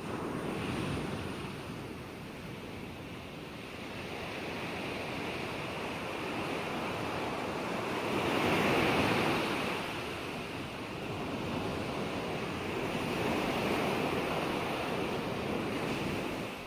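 Ocean surf: waves breaking and washing in, the rush swelling and falling back in slow surges, with the biggest wave about halfway through.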